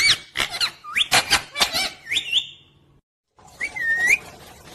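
Pet parrot calling: a quick run of short, high, squeaky chirps, then a brief break and one more call.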